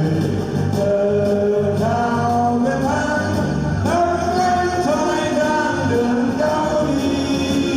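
A solo voice singing a song over accompanying music.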